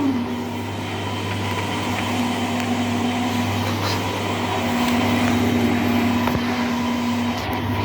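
Whirlpool washing machine in its spin cycle: a steady motor hum and whine from the spinning drum, the whine dropping a little in pitch right at the start.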